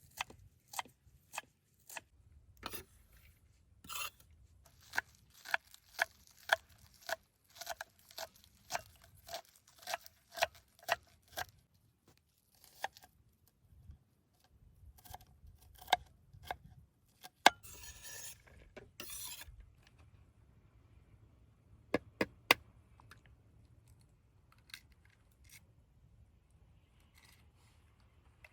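Kitchen utensils being handled during cooking: a run of sharp knocks about two a second for several seconds, then a brief scraping, then a few sharp clinks.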